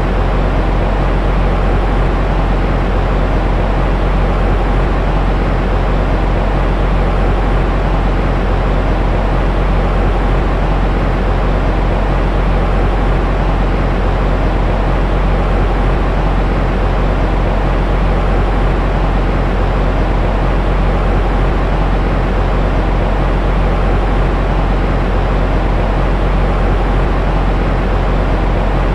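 Continuous baby-sleep white noise: an even, unbroken hiss, heavy in the low end and dull, with little treble.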